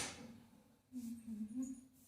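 A faint voice, a short wavering hum or murmur lasting about a second near the middle, after a clatter dies away at the start.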